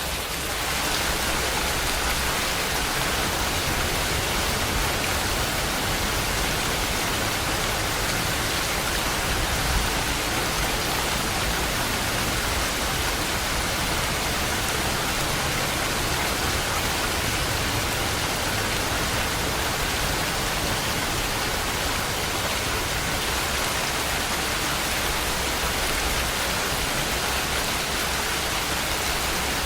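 Steady rain, a dense even hiss of drops falling on a surface.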